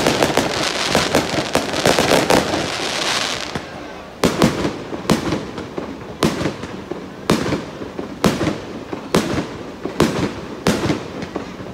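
Aerial fireworks bursting: a dense crackling barrage of many overlapping bangs for the first few seconds, then separate booming bursts about once a second, each trailing off in an echo.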